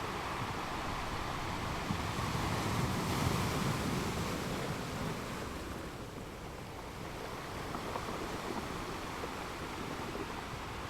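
Ocean waves washing onto a beach, a steady surf hiss that swells about three seconds in and then eases off.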